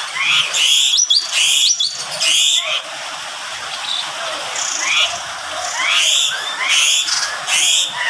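Caged aviary birds calling: a run of short, high, rising chirps and whistled notes, repeated every half second or so with brief pauses.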